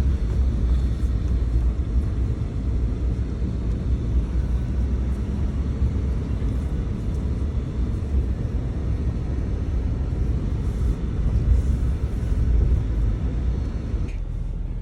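Steady low rumble of a vehicle engine idling, heard from inside the cab.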